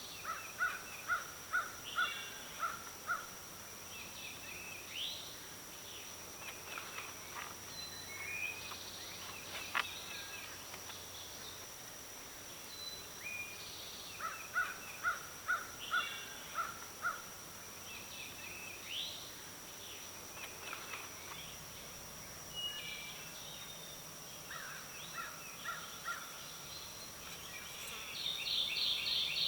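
Woodland birdsong: several birds repeating short chirped and whistled phrases, including runs of five or six evenly spaced notes that come back several times, over a faint steady high thin tone. A single sharp click about ten seconds in.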